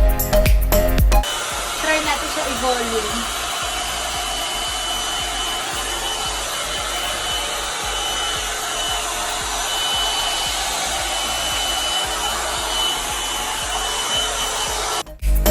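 2-in-1 hot-air brush hair dryer and volumizer running steadily: a rush of air with a thin, steady high whine. Music plays for about the first second, before the dryer cuts in, and comes back after the dryer stops just before the end.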